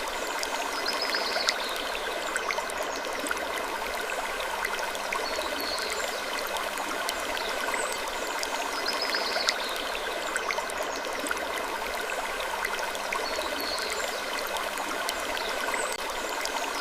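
A steady, water-like rushing noise, with small ticks and short, faint creaks recurring every few seconds: a looped ambience of gently creaking wood.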